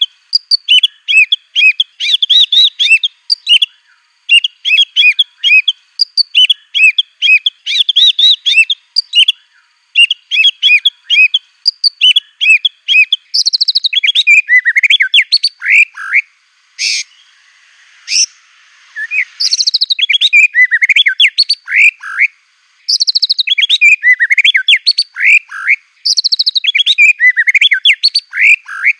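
White-rumped shama (murai batu) in full song, delivering rapid, loud phrases. For the first half it repeats short trilled phrases about once a second; from about halfway it switches to down-slurred whistles mixed with harsh, buzzy high notes and sharp chips.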